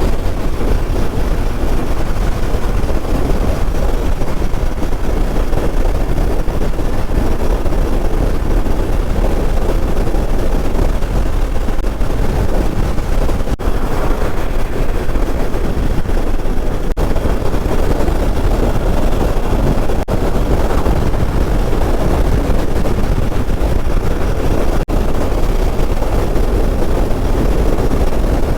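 Hero Xpulse motorcycle riding at road speed: steady engine and wind rush on the rider's microphone, cutting out for an instant a few times.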